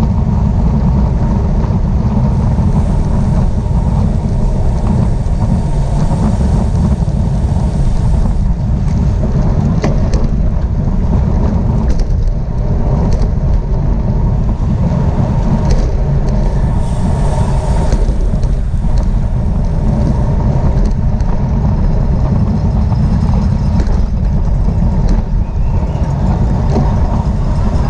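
Steady low wind rumble on the microphone from riding at speed in a bicycle road race, with a few faint clicks.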